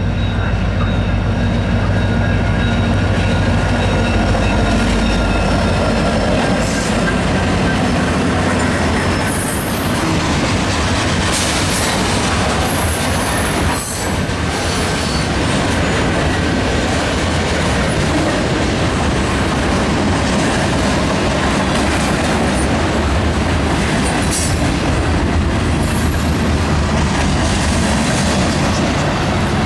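Diesel-hauled freight train passing close by. The locomotives' deep engine hum comes first, then a steady rumble of freight cars rolling past, wheels clacking over the rail joints, with brief high wheel squeals in the middle.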